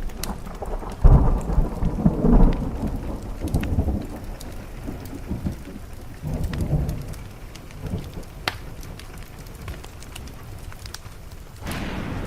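Rolling thunder over steady rain, with scattered sharp crackles from a wood fire. The thunder swells about a second in, dies away over the next few seconds, and a fresh rumble begins near the end.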